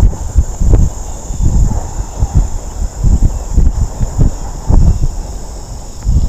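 Wind buffeting the microphone in irregular gusts of low rumble during a bike ride. Underneath is a steady, high-pitched insect chorus, typical of crickets.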